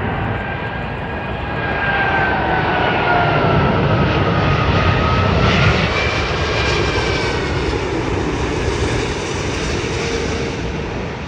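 Four-engine Airbus A380 jet passing low overhead on final approach, a loud engine rumble with whining fan tones that glide down and then back up as it goes over. It is loudest about halfway through and fades slowly toward the end.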